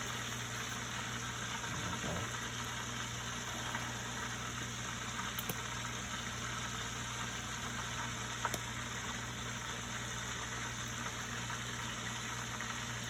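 A steady mechanical hum with a constant low tone runs throughout, with a few small clicks about five and a half and eight and a half seconds in.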